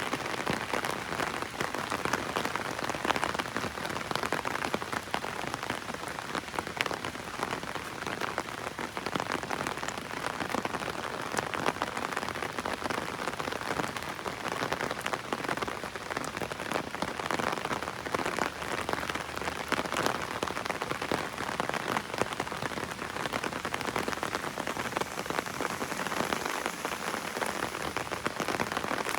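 Heavy rain drumming steadily on an umbrella, a dense patter of raindrops.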